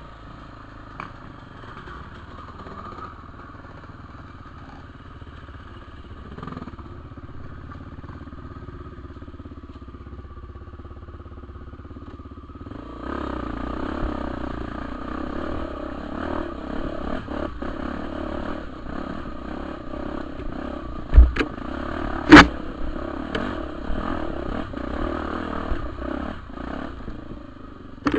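Honda Tornado 250's single-cylinder four-stroke engine running on a dirt trail, the revs rising about halfway through as the throttle opens. Two sharp knocks of the bike over rough ground stand out a little after that.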